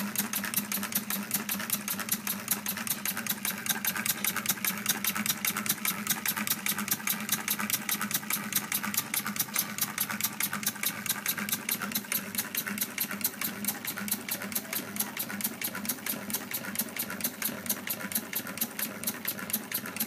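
Fly-ball-governed LEGO single-cylinder engine running on compressed air, clicking and puffing air in a steady, rapid rhythm of about five strokes a second.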